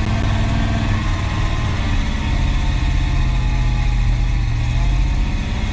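1973 Ford F-250's 360 V8 engine running steadily at low speed. Its choke sticks on, which leaves it short of power off idle.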